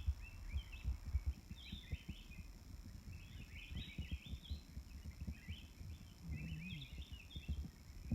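Birds calling in irregular clusters of short, high, quick chirps, over low irregular knocking and rustling handling noise.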